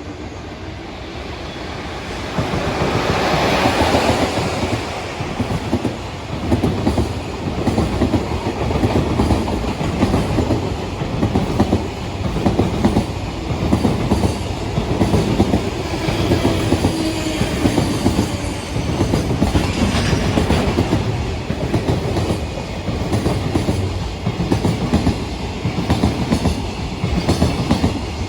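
A train passes close by at speed. A loud rush builds as the front goes by about four seconds in, followed by a long, even run of clickety-clack as the wheels cross rail joints, in groups about a second apart.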